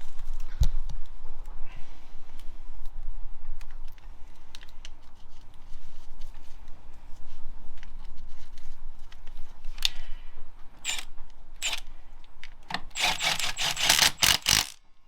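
Metal parts and hand tools clinking and scraping as parts are fitted to an engine. There are scattered single clicks, then a dense burst of metallic rattling near the end.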